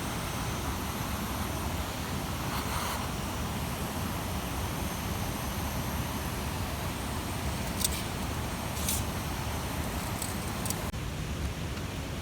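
Large campfire burning: a steady rushing noise with a few sharp crackles and pops in the second half.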